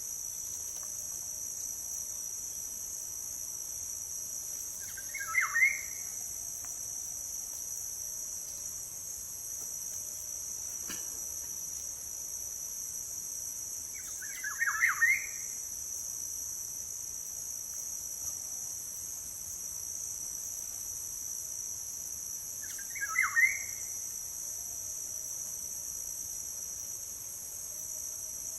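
Short whistled phrases of a black-naped oriole (kepodang) recurring three times, about every nine seconds, over a steady high-pitched drone of insects.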